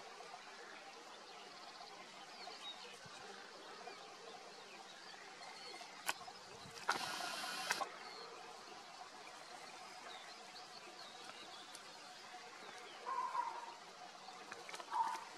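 Outdoor background hiss with faint, scattered bird chirps. A loud, harsh call lasts about a second midway, and two short calls come near the end.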